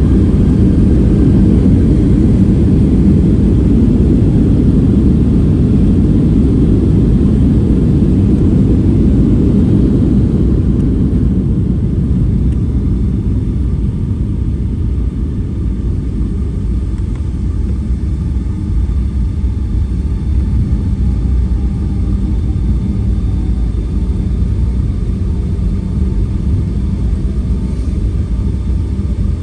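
Cabin noise of a Boeing 757-300 on the ground just after landing: a loud, steady low rumble of engines and airframe that eases about eleven seconds in as the jet slows.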